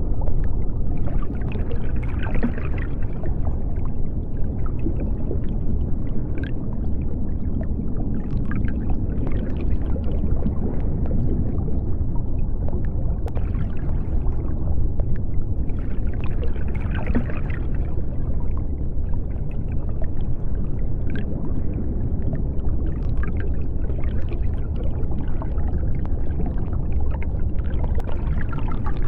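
Underwater sea ambience: a steady deep rumble with scattered soft clicks and bubbling. A hazy higher swell rises and fades twice, about two seconds in and again past halfway.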